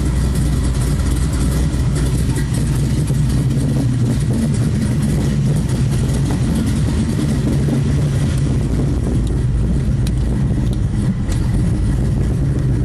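Camaro Z28's LT1 5.7-litre V8, with an aftermarket cam, LE2 heads and intake, running steadily through Flowmaster Super 40 mufflers.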